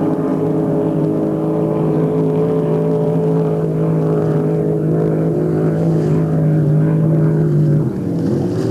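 Racing boat engines running at a steady high pitch, with other engines' notes sweeping up and down beneath it; near the end the main note drops away, then climbs again.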